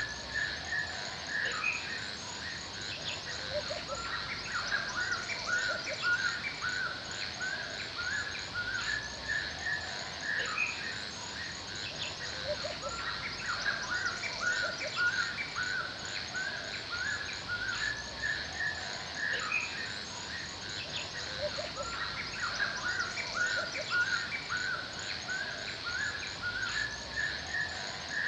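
Forest ambience: songbirds chirping in quick repeated phrases, over a steady high-pitched insect buzz.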